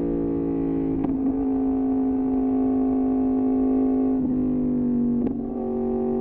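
Yamaha MT-10's crossplane inline-four with an Austin Racing exhaust, running at steady high revs under way. Its pitch steps slightly lower about a second in, again around four seconds and once more near five seconds, each with a brief click.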